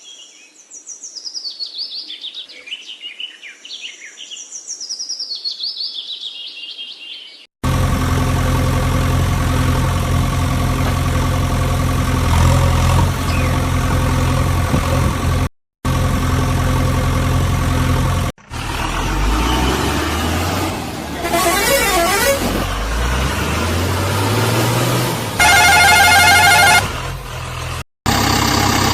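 Birds chirping, then a sudden switch to a tractor engine running steadily, broken by a few brief silent gaps. A vehicle horn honks for about a second near the end.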